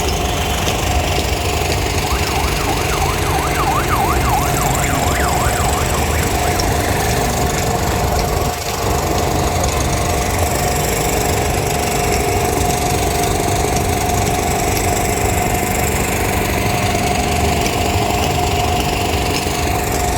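Steady mechanical drone with a held hum over a noisy rush. A fast warbling tone rises and falls repeatedly for a few seconds near the start.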